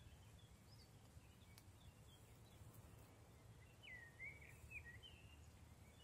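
Faint songbird singing: scattered chirps and one short warbling phrase about four seconds in, over a low, steady rumble.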